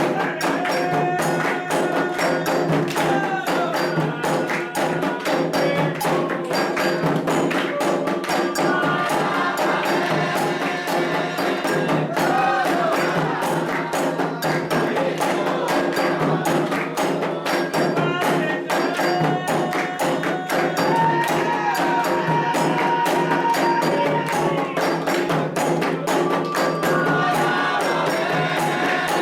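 Candomblé ritual music: atabaque hand drums beating a dense, steady rhythm, with voices singing a chant over them.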